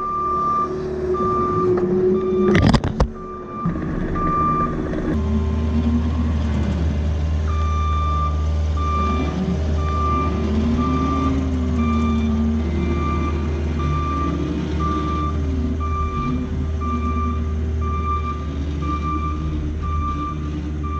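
Heavy-equipment backup alarm beeping a little over once a second over a diesel engine whose pitch rises and falls as the machine works. The beeping pauses for about two seconds in the first quarter, then resumes. A loud knock is heard just under three seconds in.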